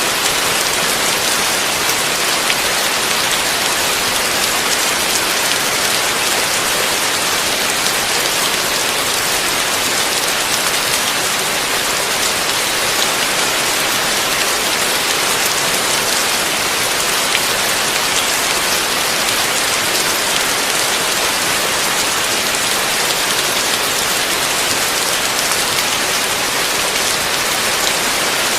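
Heavy rain falling steadily: a dense, even hiss with faint scattered ticks of individual drops, no thunder.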